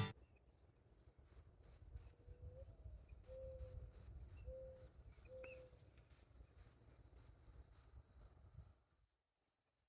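Faint, evenly repeated high cricket chirping, a few pulses a second, in near silence. Four short low calls come in the middle, and a low rumble underneath fades out near the end.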